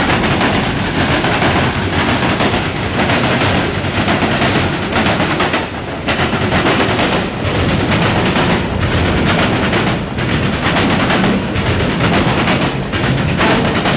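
Mixed freight train cars rolling past close by: a loud, steady rumble and rattle with repeated sharp clacks as the wheels cross rail joints.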